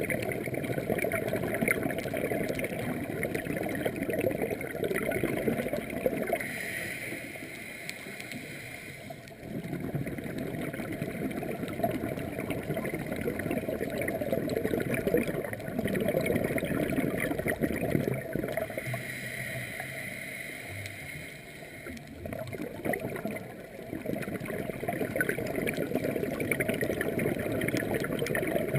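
Scuba regulator breathing heard underwater: long stretches of bubbling exhalation, twice broken by quieter pauses with a hissing inhale.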